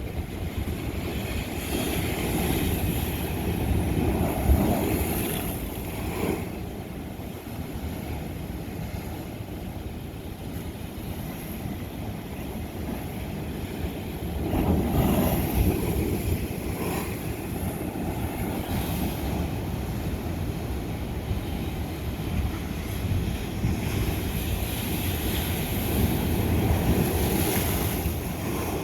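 Ocean waves surging and breaking on lava rock, swelling three times, roughly every twelve seconds, over a constant hiss of surf. Wind rumbles on the microphone.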